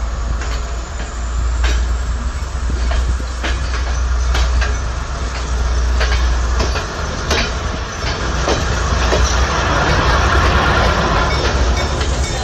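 Passenger train coaches rolling past close by and picking up speed as the train leaves the station: a continuous rumble with repeated sharp clacks of the wheels over rail joints.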